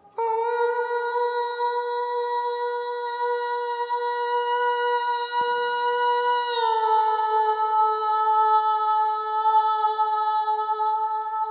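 A soprano voice holding one long, steady note, sung or hummed, that slides down a little in pitch about six and a half seconds in and is then held again.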